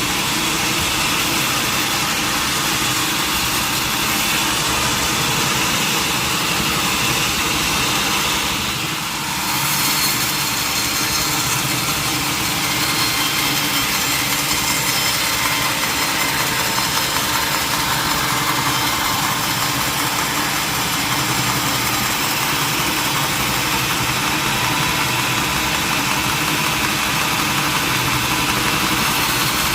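Sawmill engine running steadily, with a short drop in level about nine seconds in.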